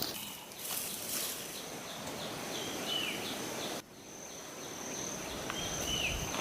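Forest ambience: a steady, high-pitched insect drone with short, falling bird chirps repeating over a hiss of background noise. The sound cuts off suddenly a little past the middle, then carries on.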